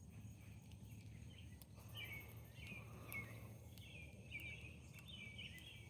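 Faint American robins calling: a quick run of short chirps, starting about two seconds in.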